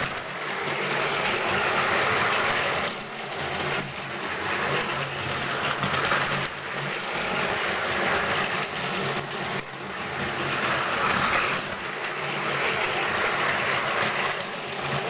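Battery-powered Plarail toy train running on plastic track: its small motor whirs and its wheels rattle, the sound swelling and fading every few seconds.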